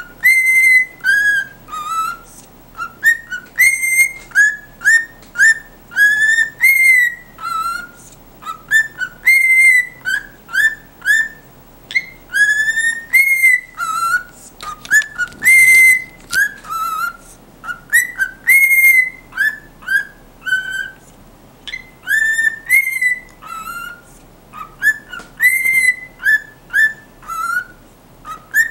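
Pet cockatiel whistling a learned tune: a long run of short, clear whistled notes, many of them quick upward swoops, hopping between a lower and a higher pitch at a few notes a second.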